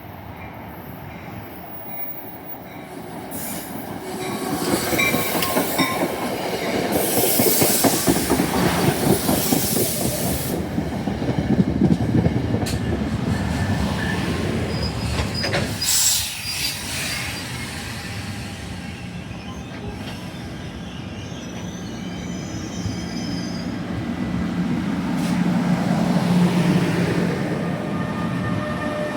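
Passenger train going by on the rails close at hand, its wheels squealing in high thin tones. The rumble builds from about four seconds in and stays loud, with a steady low hum later on.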